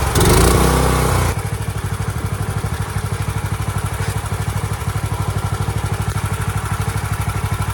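Longtail mud motor's small engine running steadily with an even pulsing, a little louder in the first second before it settles to a lower, even run.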